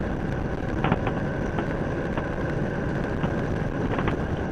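Motorcycle riding at highway speed: a steady rush of wind and road noise over the engine's hum, with a few faint ticks.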